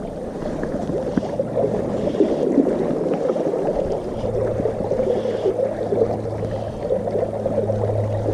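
River water flowing and gurgling. A low steady hum comes in about four seconds in.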